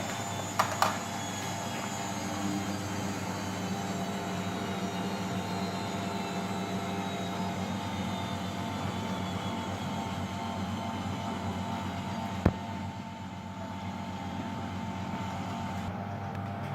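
Washing machine running with a steady motor hum and whir carrying several steady tones. There are two clicks about a second in and one sharp click about twelve seconds in, after which it runs a little quieter.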